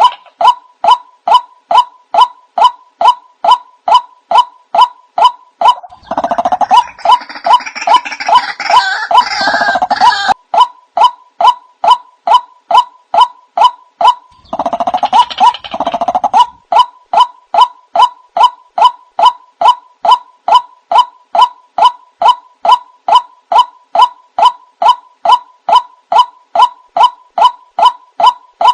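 White-breasted waterhen calls, a monotonous call repeated evenly about twice a second throughout. Twice, about six seconds in and again near the middle, a denser, harsher burst of calling joins in for a few seconds.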